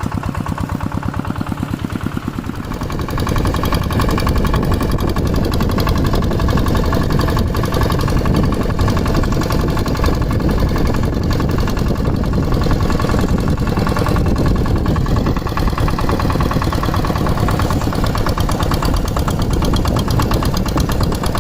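Two-wheel walking tractor's single-cylinder diesel engine running, rising in loudness about three seconds in and then holding steady.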